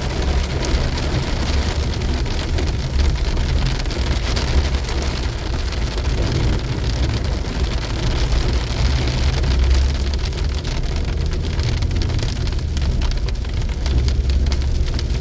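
Heavy rain pelting a moving car, a steady dense patter over a continuous low road-and-engine rumble.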